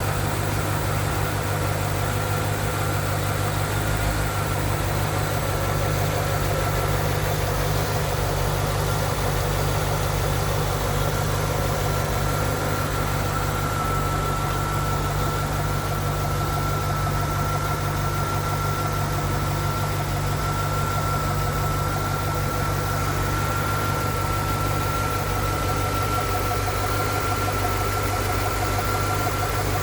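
The 1996 Corvette's LT4 5.7-litre small-block V8 idling steadily, with a thin, steady high whine over the low engine hum.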